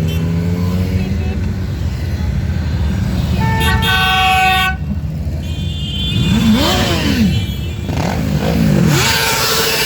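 Motorcycle engines in a parade. A vehicle horn blares steadily for about a second near the middle. Then engines are revved up and back down several times in quick succession.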